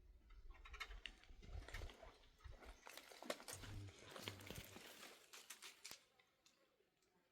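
Faint scattered knocks, clicks and rustling, fading away about six seconds in.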